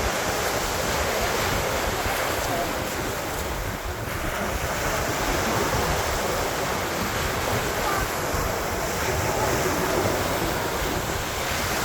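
Sea waves washing steadily onto the beach, with wind rumbling on the microphone.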